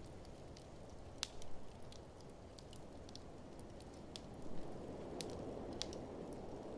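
Open wood fire crackling, with scattered sharp pops, over a steady low rush of blizzard wind.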